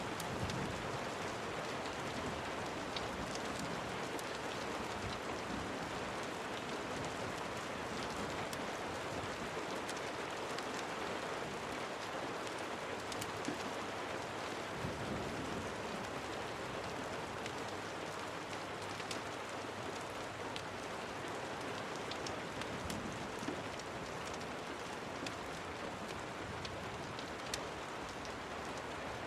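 Steady rain, falling evenly throughout, with many small scattered ticks and taps of drops.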